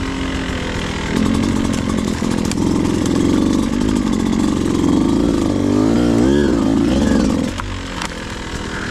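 Beta 200RR two-stroke dirt bike engine running at low revs. It opens up about a second in, rises and falls in pitch with the throttle over the next few seconds, then drops back near the end.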